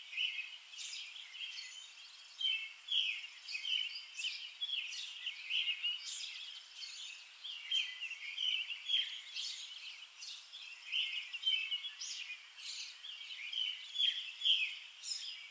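Birds chirping: a continuous run of short, quick calls.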